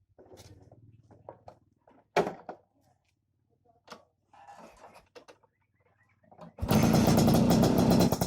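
Scattered light clicks and knocks with one sharp knock about two seconds in; then, near the end, a Vespa scooter engine with a racing exhaust suddenly comes in loud and runs hard.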